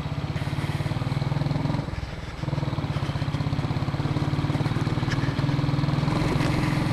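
Royal Enfield single-cylinder motorcycle engine running under way, with a fast, steady thumping pulse. The engine note drops briefly about two seconds in, then picks up again and holds.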